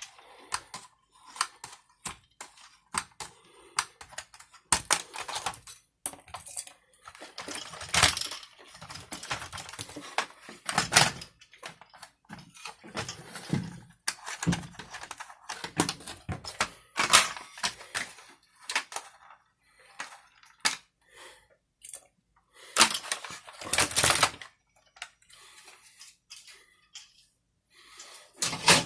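Irregular clicks, taps and scrapes of small plastic and metal parts being handled and worked with hand tools, with a few louder knocks.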